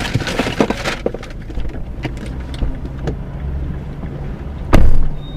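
A car's engine and road noise run steadily, heard from inside the vehicle, with crackling clicks in the first second. A single loud thump comes near the end.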